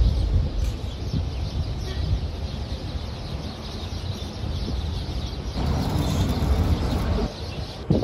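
Birds chirping over a steady low rumble, with a louder burst of noise a little past halfway and a short knock near the end.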